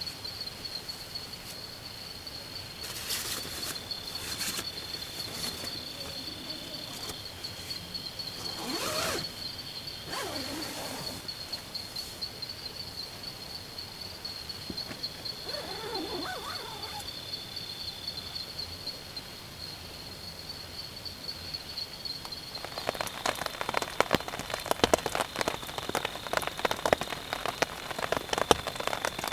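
Insects trilling steadily at a high pitch in the forest, with a few scattered taps and short calls. About three-quarters of the way through, rain sets in and patters densely.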